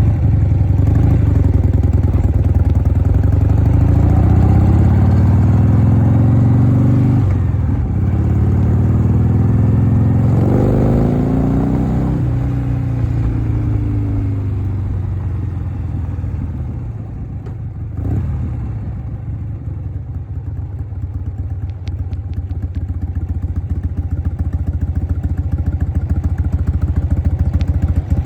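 1988 Harley-Davidson Softail's 1340 cc Evolution V-twin under way: the engine pitch climbs, drops at a gear change about seven seconds in, and climbs again. The engine then eases off and runs lower and quieter through the second half.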